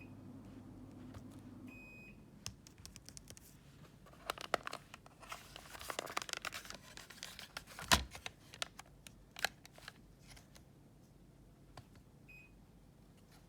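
Two short electronic beeps from a Daikin air conditioner and its remote control, one about two seconds in and one near the end, with a low hum that fades just after the first beep. In between is a stretch of rustling and clicks with a sharp knock about eight seconds in.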